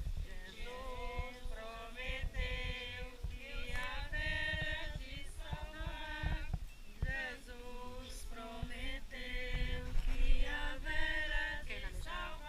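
A group of men and women singing together, with no clear instrument behind them.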